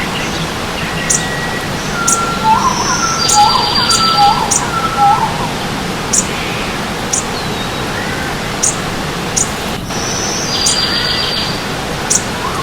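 Several birds singing and calling over the steady rush of running stream water: a series of short rising whistled notes, a buzzy high trill twice (a few seconds in and again near the end), and thin high ticks repeated throughout.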